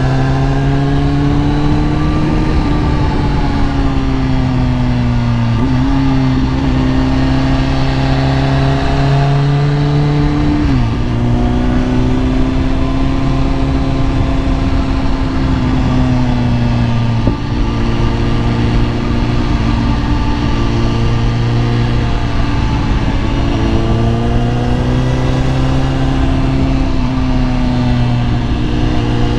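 Kawasaki ZX-10R's inline-four engine running loud and steady under way, its note drifting gently up and down, with a few brief breaks in the note and a drop in pitch about ten seconds in. A steady rush of noise lies under it.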